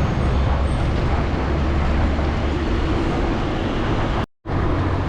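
Steady road and traffic noise heard from a bicycle riding along a city street, with a strong low rumble. It cuts out abruptly for a moment a little after four seconds in.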